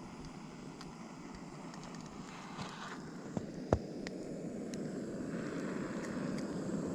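Small campfire of wet wood and damp birch bark being lit: a steady hiss that grows a little louder after about three seconds, with scattered crackles and one sharper pop near the middle. The fire is struggling to catch because the fuel is wet.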